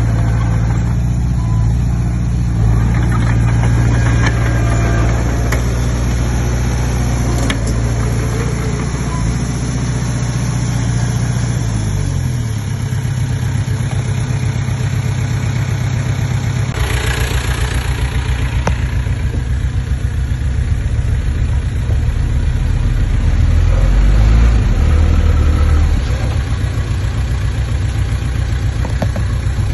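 Komatsu D20P bulldozer's diesel engine running while working, its engine speed shifting about twelve seconds in and rising again later. There is a brief rushing, hissing noise for about two seconds partway through.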